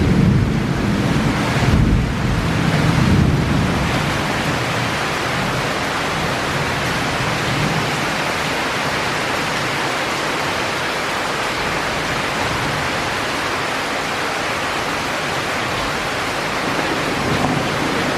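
Heavy rain pouring down in a steady, dense hiss. Low rumbling swells come through in the first few seconds, then the downpour goes on evenly.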